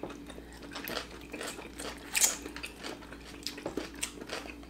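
People chewing butter-fried abalone close to the microphone: wet, sticky mouth clicks and smacks scattered irregularly, with one sharper smack a little past halfway.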